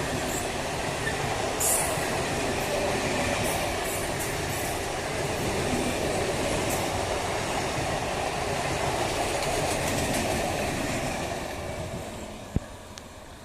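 An electric multiple-unit local train running through the station without stopping, its wheels clattering over the rail joints. The noise fades away about three-quarters of the way through, and a single sharp click follows near the end.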